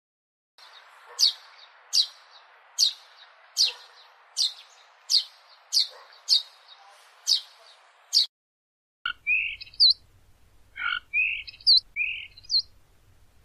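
Birds calling: a run of about ten sharp, evenly spaced chirps, one every three-quarters of a second, then after a short break a different series of quick two-note chirps.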